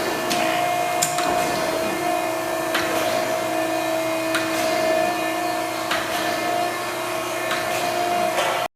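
Kent SGS-2040HD hydraulic surface grinder running, a steady hum with two held tones over a hiss, with a sharp tick every second and a half or so. The sound cuts off suddenly near the end.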